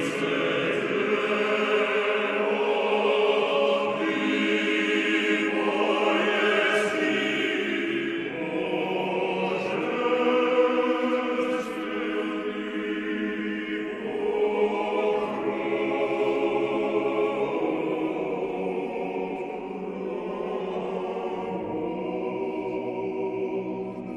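A choir singing a slow chant in harmony, many voices holding long notes.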